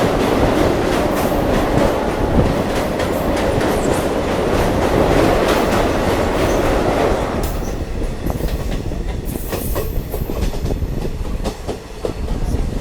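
Diesel multiple unit train running along the track, heard on board: a steady rumble with wheel clicks over the rail joints. The rushing noise thins out abruptly about seven and a half seconds in, leaving the lower rumble and the clicks.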